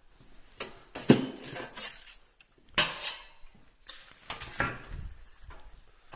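Metal parts and tools being handled, clattering and knocking several times, with the loudest knocks just after a second in and near three seconds in.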